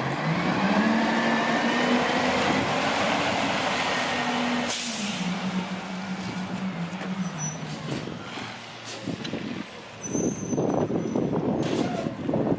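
International garbage truck's engine revs up with a high whine climbing over the first couple of seconds, as heard when the truck backs up fast. About five seconds in an air brake lets out a sharp hiss, and the engine drops back and winds down. Rough rumbling follows near the end.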